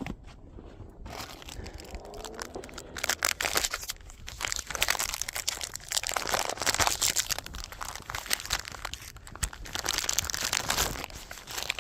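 Crinkling and crunching of a bag or wrappers being handled, in dense irregular crackles that start about three seconds in.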